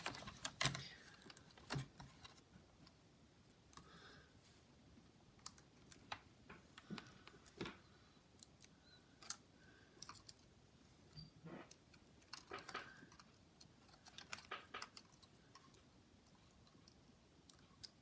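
Faint, scattered clicks and taps of small plastic laptop parts being handled, as internal ribbon-cable connectors are worked into place.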